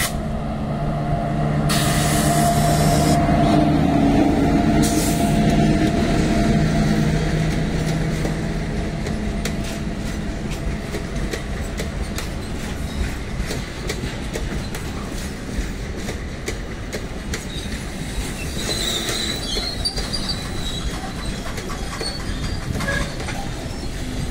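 Indian Railways WAG-9 electric locomotive hauling a container freight train past at close range. A steady electric hum comes from the locomotive as it goes by, then the loaded container wagons roll past with a continuous rumble and rapid clicking of wheels over the rail joints. There is a brief high squeal about two-thirds through.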